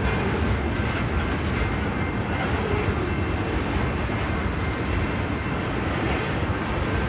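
Rock-loaded freight gondola cars rolling past in a steady, continuous low rumble of steel wheels on rail.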